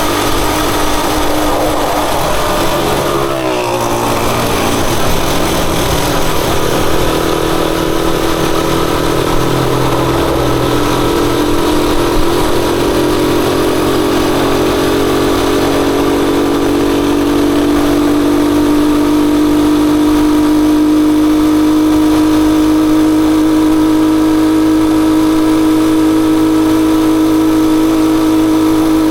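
Rusi Chariot 175 motorcycle engine running under way. Its note dips briefly about three to four seconds in, as at a gear change or a lift off the throttle, then climbs slowly and steadily as the bike gathers speed.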